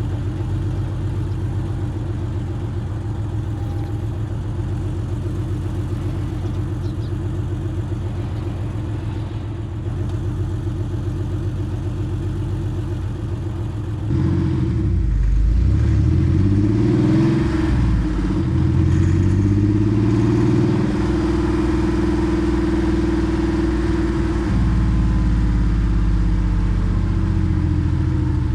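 Porsche 964 Carrera 2's air-cooled flat-six with a centre straight-through exhaust, running steadily at first. About halfway through it gets louder and accelerates, revs rising and falling through a few gear changes, then holds steady at a higher level.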